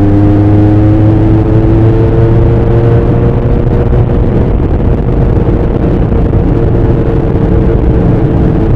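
Bimota SB3's Suzuki GS1000 inline-four engine and exhaust running under way. Its note rises gently over the first three seconds or so, then holds steady.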